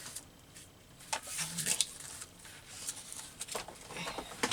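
Paper and craft pieces handled on a table: rustling and light clicks and taps, in two short bouts.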